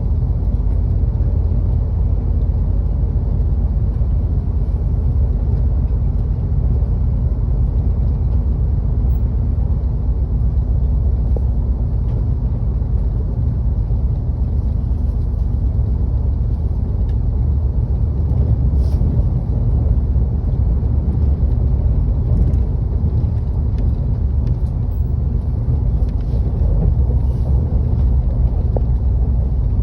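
Seoul metro train running on the track: a steady, unbroken low rumble, with a few faint clicks.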